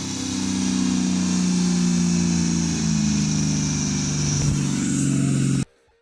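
Diesel truck engine running hard on a chassis dynamometer, its pitch sinking slowly, cut off suddenly about five and a half seconds in.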